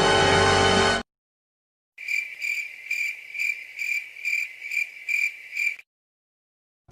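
A music clip cuts off about a second in. After a short pause, a cricket chirps steadily, about two chirps a second, for nearly four seconds, then stops: the 'crickets' sound effect used for an awkward silence.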